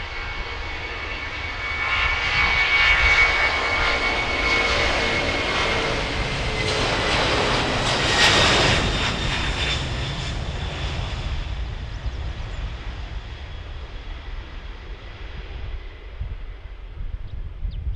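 Boeing 767-300ER's twin GE CF6-80C2 turbofans at takeoff thrust, passing by. It swells to its loudest about eight seconds in, with a fan whine that drops in pitch as the jet goes past, then fades away.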